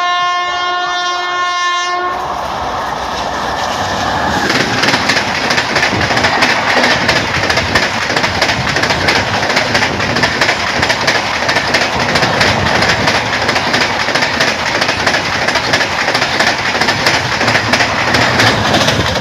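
Train horn blowing a steady multi-tone blast for about two seconds as the train approaches, then a fast passenger train rushing past close by, its coaches' wheels clattering over the rails in rapid clicks.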